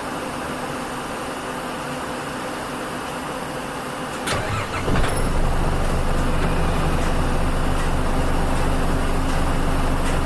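Diesel engine of a Nissan Diesel KL-UA452MAN city bus idling quietly, then, after a short sharp noise about four seconds in, pulling away from a stop and accelerating, its engine sound stepping up in level and running steadily louder.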